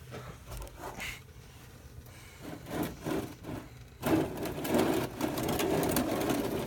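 Faint scraping and knocking as the oil filter is worked loose and pulled out from under the truck, then about four seconds in a steadier rough scraping and rattling that lasts about two and a half seconds.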